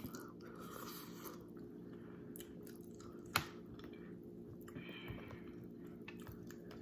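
Close-miked chewing of a mouthful of boiled potato soaked in butter sauce, soft and wet, over a faint steady hum. A single sharp click comes about three and a half seconds in.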